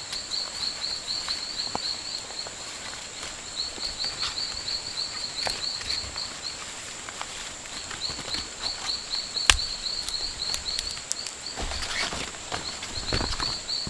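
Rainforest ambience: a steady high-pitched insect drone with runs of rapid, repeated chirping that start and stop, plus scattered light knocks and one sharp crack about nine and a half seconds in.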